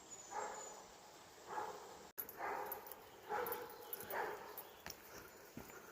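A dog breathing hard in short, breathy huffs, about five of them roughly a second apart.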